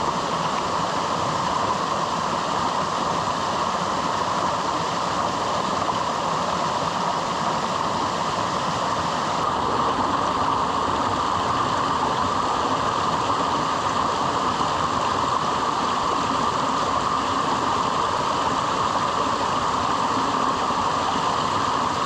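Strong wind and rain making a steady, unbroken rushing noise.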